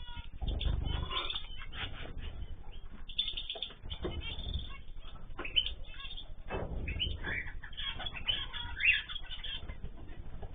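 Mixed small cage birds (cockatiels, zebra finches, canaries and goldfinches) chirping and calling over one another in a dense, continuous chatter, with a few louder calls standing out about halfway through and near the end.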